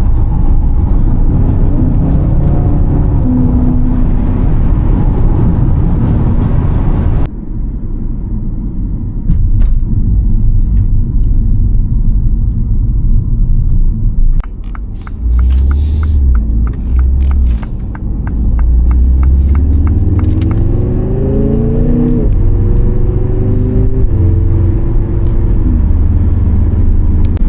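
A Mini car driving on a highway, with a steady low rumble of engine and tyres. Near the end the engine note rises and drops back twice as the car accelerates through the gears, and a quick run of ticks comes about halfway through.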